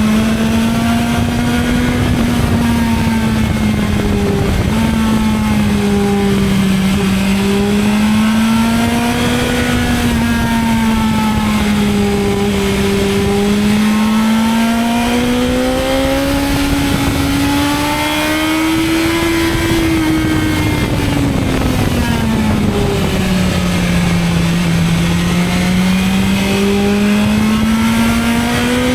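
BMW S1000XR's inline-four engine pulling along at a steady cruise. Its pitch rises and falls gently as the throttle is eased on and off, dips about two-thirds of the way through, then climbs again near the end.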